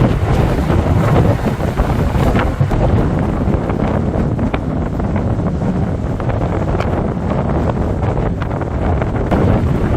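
Strong storm wind gusting against the microphone over the wash of rough sea waves, with rain falling.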